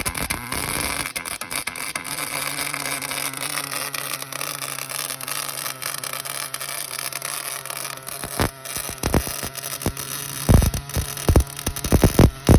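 MIG welding arc crackling steadily, with a low steady hum under it from about two seconds in. In the last couple of seconds a run of deep low thumps comes in.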